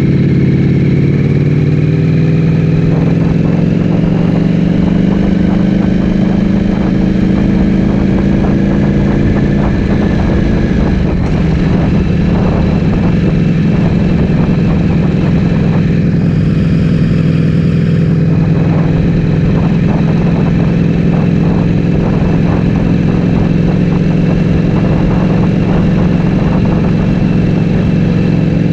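Ducati Streetfighter V4S's 1103 cc V4 engine running through an Akrapovic full-system exhaust; its note eases down in pitch over the first ten seconds or so, then holds steady.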